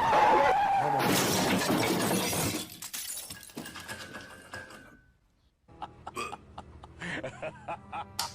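A loud crash of something breaking, a noisy clatter that sharpens about a second in and dies away after about two and a half seconds. After a brief gap comes a quick, even run of short clicks.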